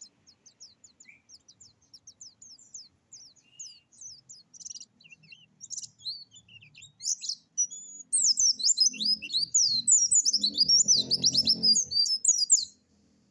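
A dakun songbird singing a rapid, varied song: a quick run of short high notes that builds, about two-thirds of the way in, into a loud dense burst of fast trills and chattering phrases, stopping shortly before the end.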